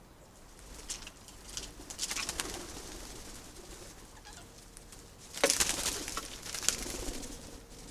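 Pigeons: two bursts of noisy rustling and flapping, the louder about five and a half seconds in.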